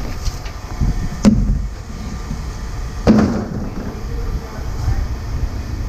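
Two sharp knocks or clanks about two seconds apart, the second louder and briefly ringing, over a low steady rumble.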